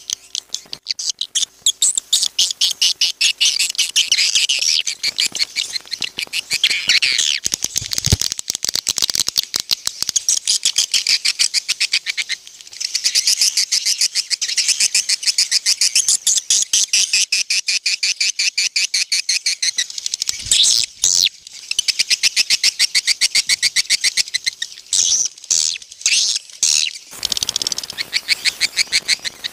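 Recorded swiftlet lure call: dense, rapid chittering twitters high in pitch, running in fast pulsing trains with a few short breaks.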